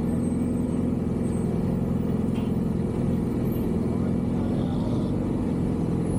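Yamaha R6 inline-four motorcycle engine running steadily at low revs, with no revving.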